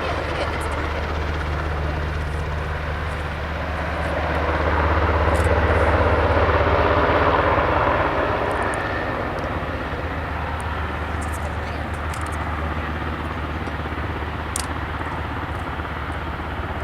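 Aircraft engines running: a steady low drone with a noisy rush above it, swelling to its loudest about five to seven seconds in and then easing off as the aircraft passes.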